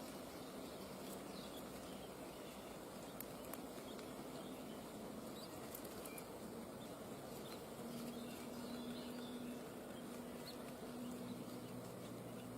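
Steady outdoor background noise with faint, scattered high chirps and clicks.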